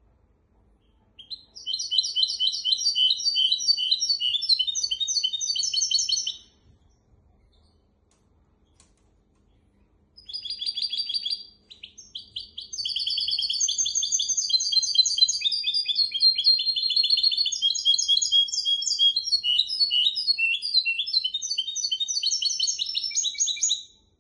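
A hybrid finch singing fast twittering trills and rolls: a phrase of about five seconds, a pause, a short burst, then a long unbroken run of song lasting about eleven seconds.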